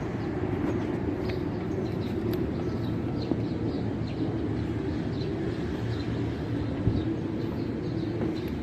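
Steady low machine hum with faint high chirps over it.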